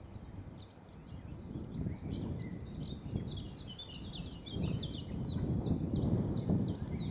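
A songbird singing a fast run of repeated high, down-slurred notes, over a low rough background rumble that grows louder about halfway through.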